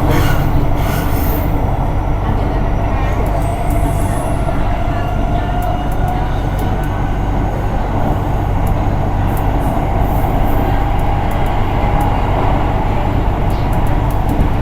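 Hitachi-built metro train running between stations: a steady rumble of wheels and running gear, with a faint wavering whine and scattered light clicks.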